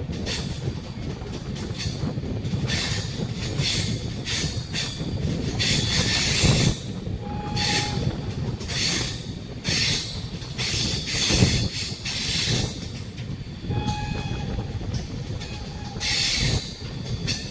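Train rolling past with a steady rumble, its wheels squealing in repeated hissing bursts about once a second, as on a curve.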